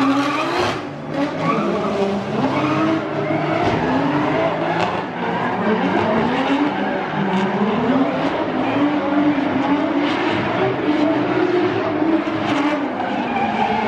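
Drift cars running on track, their engines revving up and down repeatedly with tyres skidding.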